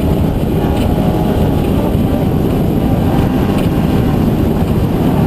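A motor running steadily at speed, loud and unbroken, with a dense rush of noise over it.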